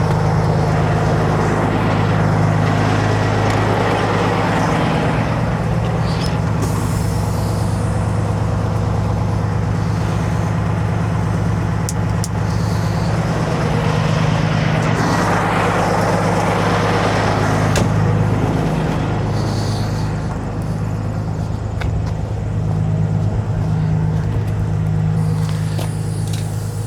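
Kenworth W900 semi truck's diesel engine idling with a steady low hum. A broad rushing noise rises and falls over it twice.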